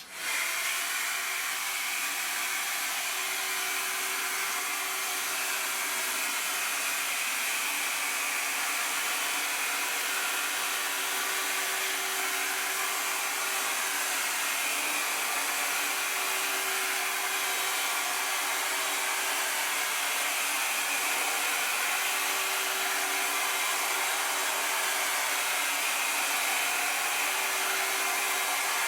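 Hand-held hair dryer switching on and blowing steadily, with a faint motor hum under the rush of air, as it heats a vinyl rim sticker so it beds onto the motorcycle wheel.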